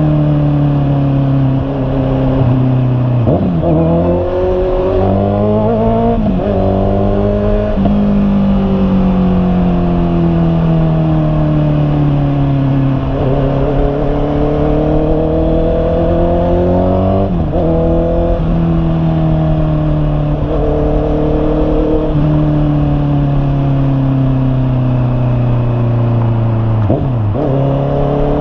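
Honda CB650R's inline-four engine under way, its note sliding slowly down for stretches and jumping or dipping sharply about half a dozen times as the revs change with gear shifts and throttle.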